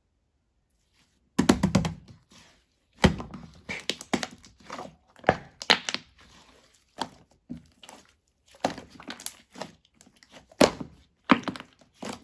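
Purple slime being squeezed and pressed by hand, making irregular clicks, pops and crackles that start about a second and a half in.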